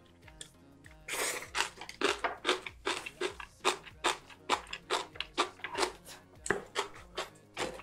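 Close-miked chewing of crunchy kimchi: loud, crisp crunches about two a second, starting about a second in.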